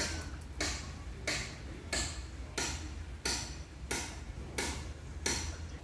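Footsteps of a person walking at an even pace, about three steps every two seconds, each step a short crunch, over a steady low rumble.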